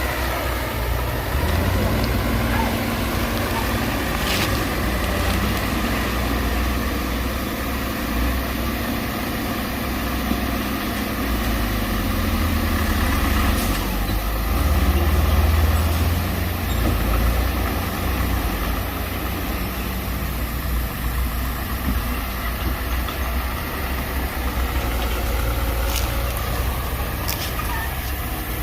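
Heavy diesel engine of earthmoving machinery running steadily, its note dropping about a second in and climbing again near the end, with a few short clanks.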